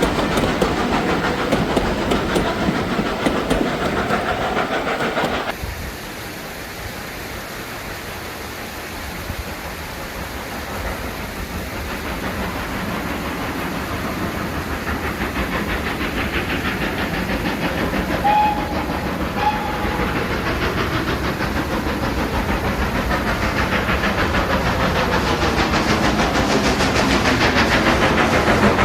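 A train running on a heritage railway line, with steady rumble and rail noise. About a fifth of the way in the sound drops abruptly to a quieter level, then grows steadily louder as a train draws nearer, with two short high tones heard briefly around the middle.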